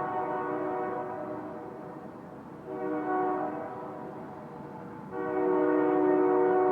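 Distant train horn echoing: a held blast that fades away, a short blast about three seconds in, then a louder long blast starting about five seconds in, over a low rumble.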